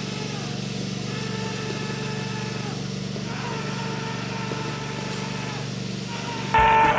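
Tractor engine running steadily while it tows a wagon. Near the end, a much louder held tone starts suddenly.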